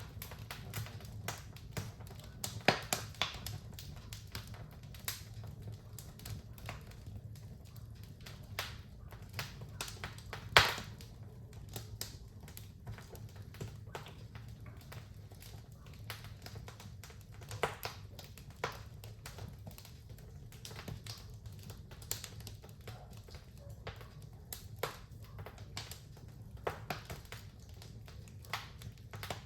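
Fire burning in a fireplace, crackling and popping irregularly over a steady low rumble, with the sharpest pop about ten seconds in.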